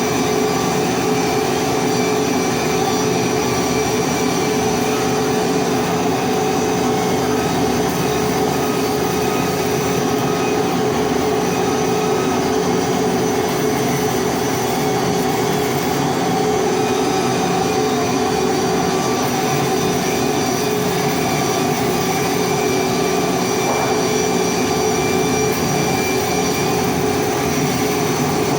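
Hardfacing welding on a pipe: a loud, steady drone of the welding equipment, a constant hum of several pitches over an even hiss, unbroken throughout.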